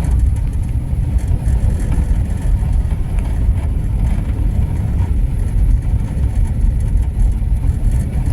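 Steady, loud low rumble of a vehicle in motion, with no clear engine pitch.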